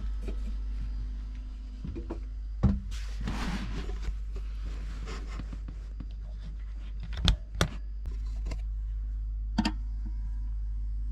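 Boat's freshwater pump running with a steady low hum while priming the sink line, with a hissing sputter for a couple of seconds and a few sharp knocks of handling.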